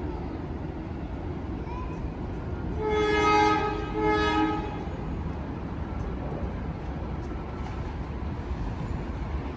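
Horn of an arriving PATH Kawasaki PA5 train sounding two blasts about three seconds in, the first about a second long and the second shorter, over a steady low rumble of the train.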